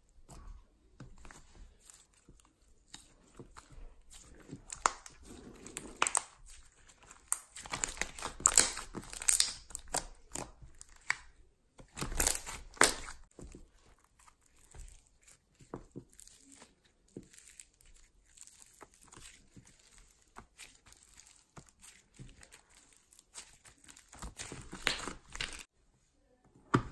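Slime being worked by hand, stretched, pulled apart and pressed, giving irregular crackling, tearing and crinkling pops; the loudest bursts come around eight to ten seconds in and again around twelve seconds in, and the handling stops abruptly near the end.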